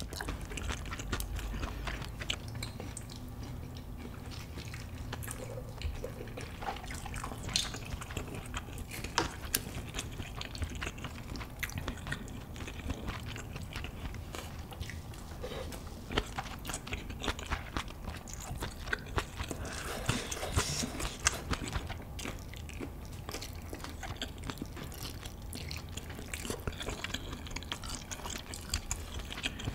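Close-miked chewing of malatang (spicy hot-pot soup with noodles, tofu skin and vegetables): wet mouth sounds with many small clicks and smacks, with a louder wet stretch about twenty seconds in.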